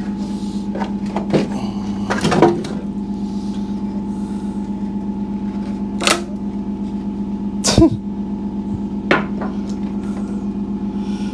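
A steady mechanical hum, with five or so separate sharp knocks and clunks of things being handled.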